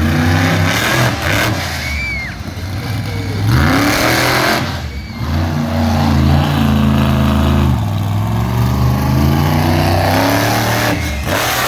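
Monster truck engine revving hard, its pitch climbing, holding and dropping again and again under heavy throttle.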